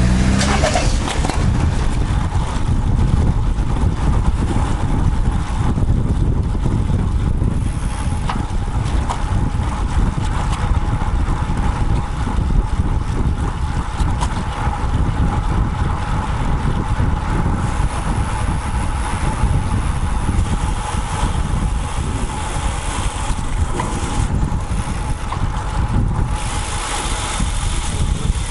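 Wind rushing over a road bike's handlebar-mounted action camera microphone while riding, mixed with road and rolling noise.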